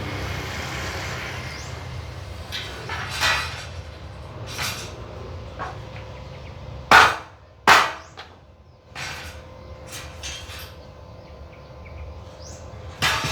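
Hammer blows, about eight at uneven intervals, the loudest two close together about halfway through, as a dented tent frame is beaten back into shape.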